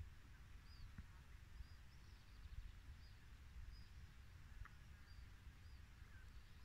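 Near silence, with a faint bird giving short high chirps that repeat every half second or so over a low rumble.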